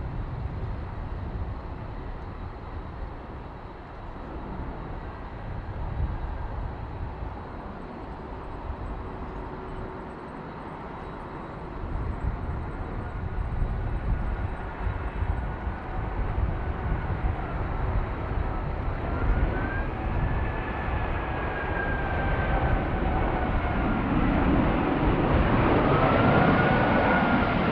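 Airbus A380-842 jetliner on landing approach, its Rolls-Royce Trent 900 engines growing steadily louder over the second half as it nears, with a whine that slides in pitch. Gusty wind buffets the microphone throughout.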